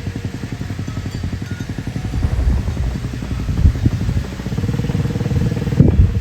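Small mini bike engine running with fast, even firing pulses, settling into a steadier note about two-thirds of the way through. A loud knock near the end.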